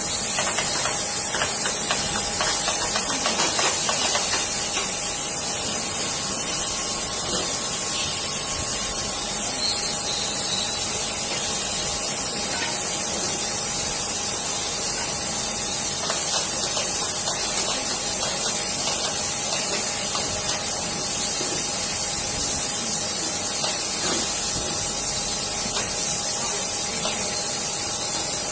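Steady, unbroken hiss with a faint constant hum under it, and no distinct knocks or events.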